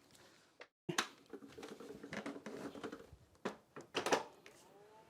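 Plastic clicks and knocks from a Proscenic WashVac F20 cordless wet-dry vacuum being handled and set down, with a few short rising tones near the end.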